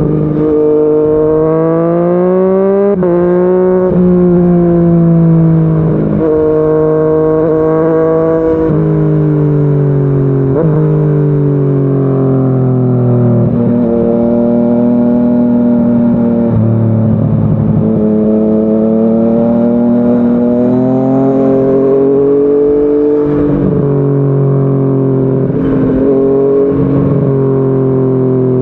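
Yamaha MT-09 three-cylinder engine through a Yoshimura R55 slip-on exhaust, accelerating under way. Its pitch climbs and then drops suddenly at each gear change, several times over, with stretches where the revs ease off and fall.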